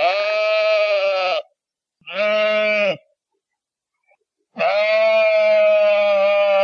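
Sheep bleating three times: a call of about a second and a half, a shorter one, then a long wavering bleat starting near the end, with silence between the calls.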